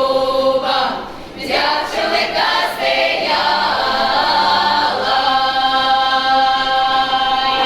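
Folk choir singing together; from about the middle it holds one long chord.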